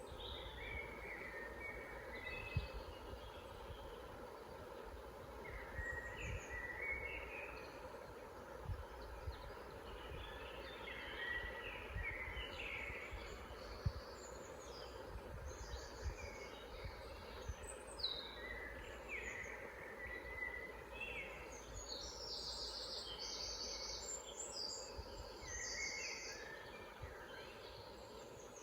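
Several songbirds singing and calling, short chirps and trills overlapping, busier in the second half, over a steady low background rumble with a couple of brief low thumps.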